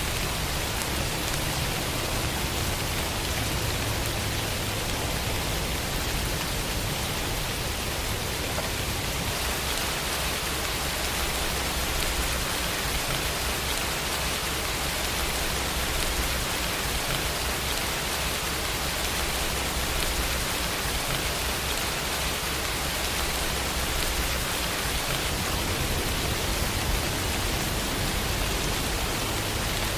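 Steady rain, an even hiss with a low rumble underneath that eases for a while and comes back near the end.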